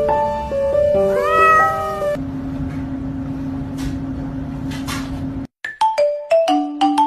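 A domestic cat meows once, a rising call lasting about a second, over background music. Near the end the audio breaks off briefly and chime-like music notes follow.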